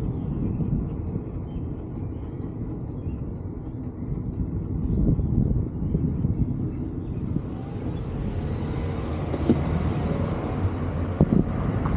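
Low, uneven rumble of wind and road noise on a moving microphone, with a car approaching and passing in the second half, its tyre hiss swelling.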